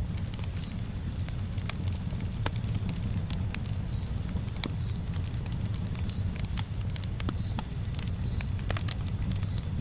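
Campfire burning, the wood crackling with frequent irregular sharp pops over a steady low rumble.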